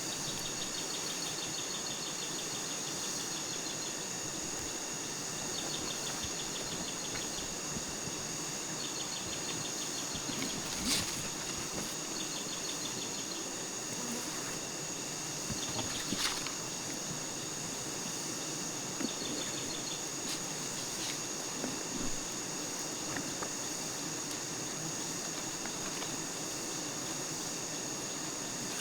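Forest insect chorus: a steady high-pitched drone, with short trains of rapid chirping pulses coming back every few seconds. A couple of faint knocks stand out, about eleven and sixteen seconds in.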